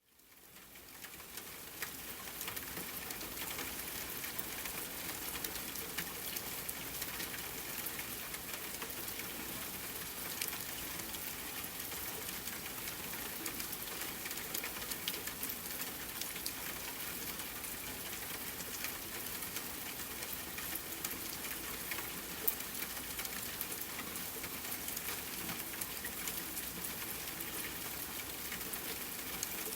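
Steady rain falling, with many small sharp ticks and pops scattered through it, typical of a campfire crackling alongside the rain. It fades in over the first couple of seconds and then holds steady.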